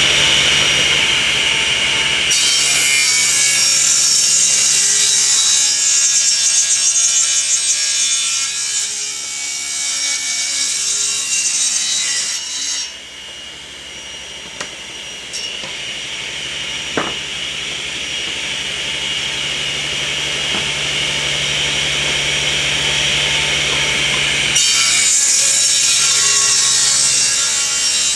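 Table saw ripping 1.5-inch-thick oak boards lengthwise: the blade cuts through one board for about ten seconds, then runs unloaded and quieter for about twelve seconds, and a second cut starts near the end.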